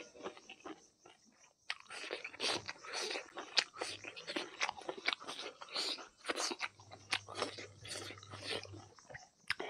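A person chewing mouthfuls of buffalo innards curry and rice, close to the microphone: wet, irregular smacks and clicks of the mouth, with a short lull about a second in.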